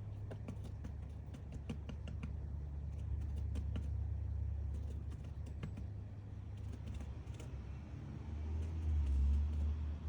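Woodpecker pecking into wood while excavating its nest hole: irregular sharp taps in short runs, over a steady low rumble that swells near the end.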